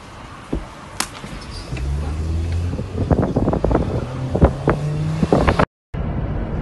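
Car engine running with a low steady hum that steps up in pitch partway through, mixed with several sharp knocks and clicks.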